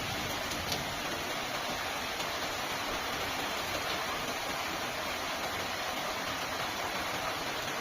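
Heavy rain falling in a steady hiss, with a few faint drop ticks.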